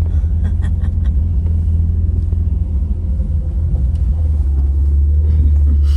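Jeep engine and drivetrain at a low crawl, heard from inside the cabin as a steady low rumble, with a few faint rattling clicks. The rumble grows louder near the end.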